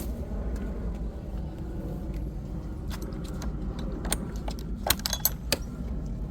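Scattered light clicks and rattles of small hard objects being handled, sharpest a little before five seconds in, over a steady low hum.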